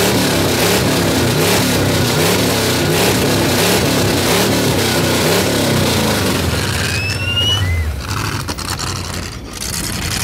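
A car engine revved hard again and again in quick blips, its pitch rising and falling about once every 0.7 s. The revving stops about eight seconds in.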